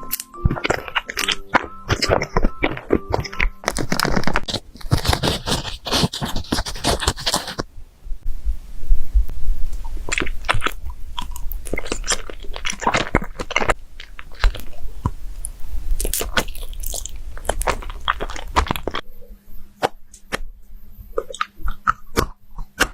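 Close-up crunching and chewing: something crisp being bitten and chewed in quick, irregular crunches, densest in the first several seconds.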